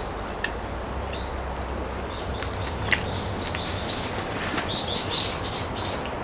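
A songbird singing a run of short, quickly repeated high notes, about four or five a second, over a steady outdoor background, with a few sharp clicks, the loudest about three seconds in.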